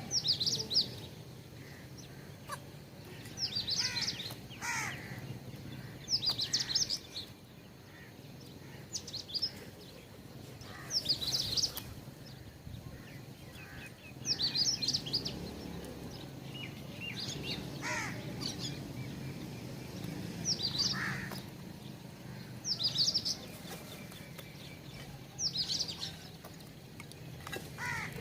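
Small birds calling in short bursts of high chirps every two to three seconds, some with lower falling notes, over a steady low rumble of background noise.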